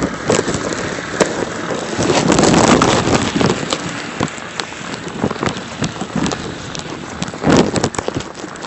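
Boots crunching through deep snow, with wind blowing over the microphone.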